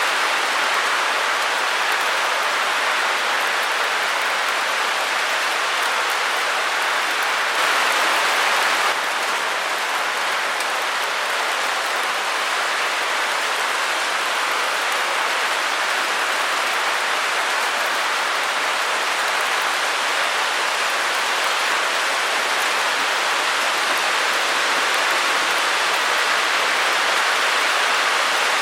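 Steady synthetic white-noise hiss, even and unbroken with little bass, briefly a touch louder and brighter about eight seconds in.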